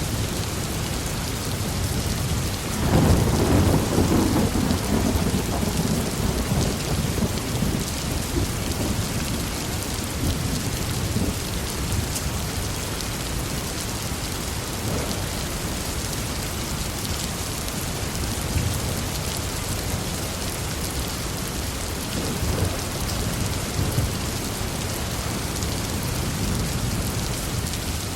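Heavy rain falling steadily, with a loud roll of thunder about three seconds in that rumbles away over several seconds, and fainter rumbles later on.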